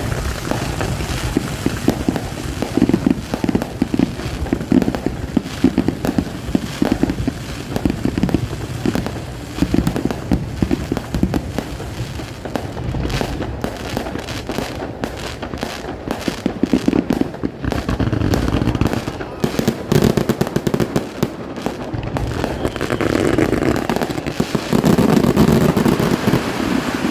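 Fireworks display: repeated shell bursts going off one after another, with a long run of rapid crackling through the middle.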